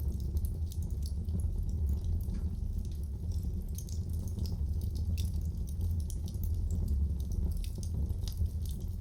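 Wood fire crackling in a fireplace: a steady low rumble of burning, with frequent small irregular pops and snaps.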